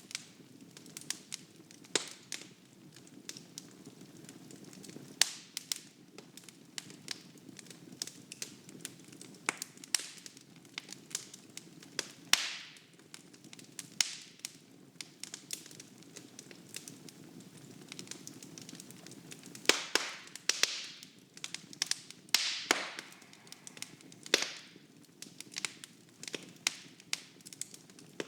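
Wood fire in a fireplace, crackling and popping with irregular sharp snaps over a soft low rumble of flames, the pops coming thickest about two-thirds of the way through.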